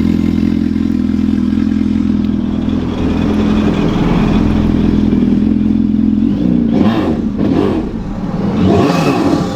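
2019 Yamaha FX SVHO jet ski's supercharged four-cylinder engine in stock form, running steadily at first, then revving up and down from about six seconds in.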